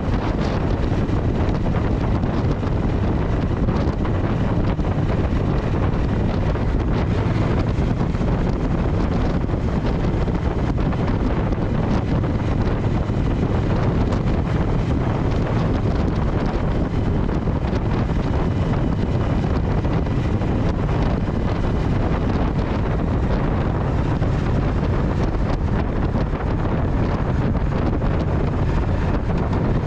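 Triumph Speed Twin motorcycle riding at a steady speed, its engine running under heavy wind rush on the microphone. The sound stays even throughout, with no gear changes or revving.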